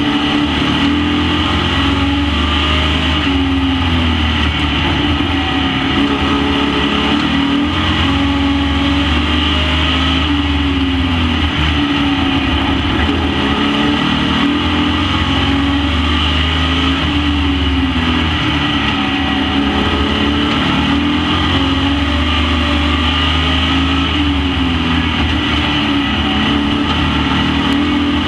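Several Super Pro Truck race engines running together at racing speed on a short oval track. Their pitch falls and rises again every few seconds, over and over.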